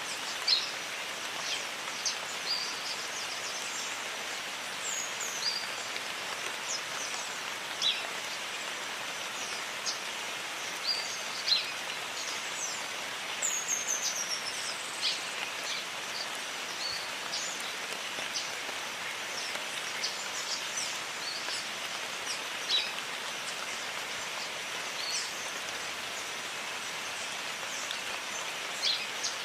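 Steady rain falling in a jungle, with birds giving scattered short, high chirps and a few falling calls over the rain's hiss.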